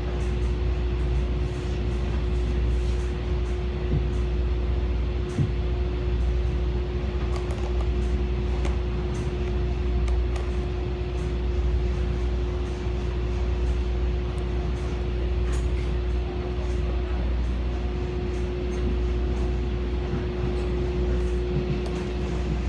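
Steady low rumble and a constant hum of a railway station platform, with faint scattered clicks, before the train is heard arriving.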